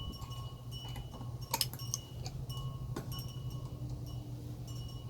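A few sharp metallic clicks and clinks of hand tools on a generator's bolts, the loudest about a second and a half in, over a steady low hum.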